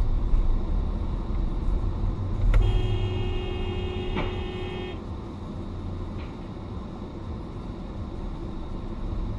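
A car driving, with a steady low rumble of road and engine noise. A car horn sounds as one steady blast of about two seconds, with a short sharp knock partway through it.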